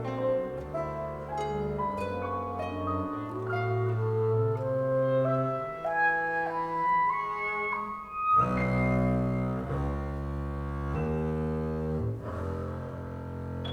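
Contemporary chamber music for clarinet, violin, double bass, guitar and piano. A high line climbs note by note over low bowed double bass notes, and about eight seconds in a denser low sustained chord takes over.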